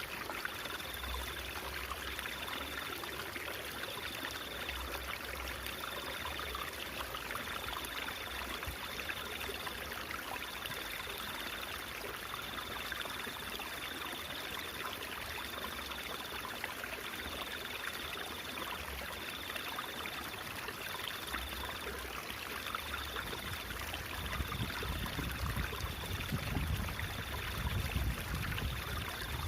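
Babbling, trickling stream water running steadily, with a faint high tone pulsing on and off about every two seconds. A deeper rumble swells in over the last few seconds.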